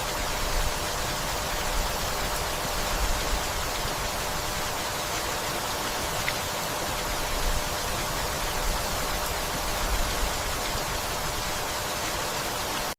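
Steady rainfall, an even hiss that holds at one level, with a faint tick about halfway through.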